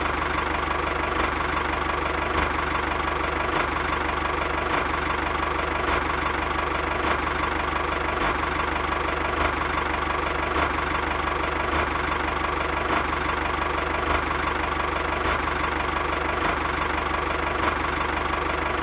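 An engine idling steadily with a regular knock, like a small diesel tractor engine ticking over.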